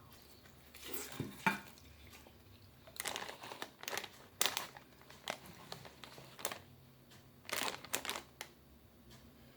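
Crisp crunching in short, irregular bursts close to the microphone: crispy fried fish being bitten and chewed.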